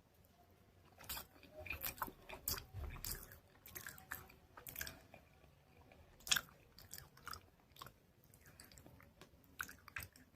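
Close-miked biting and chewing of soft chalk paste: a run of crisp crunches and crackles, with the sharpest bite about six seconds in.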